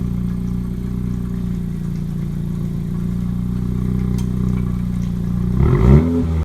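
2017 Honda Civic Si's 1.5-litre turbocharged four-cylinder idling steadily through its exhaust with the resonator deleted, then a short rev near the end.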